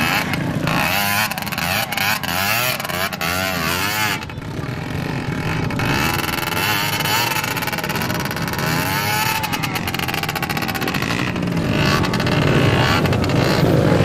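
Dirt bike engines revving hard, their pitch rising and falling again and again.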